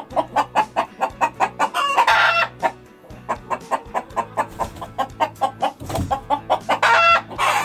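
A chicken clucking in a rapid run of short calls, with a longer, louder squawk about two seconds in and another near the end.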